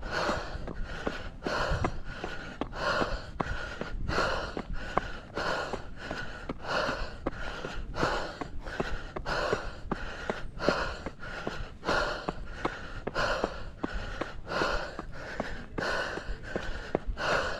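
A runner's heavy, rapid breathing, each breath in and out coming at an even pace of about one and a half a second, with footsteps on the trail and wind rumbling on the microphone.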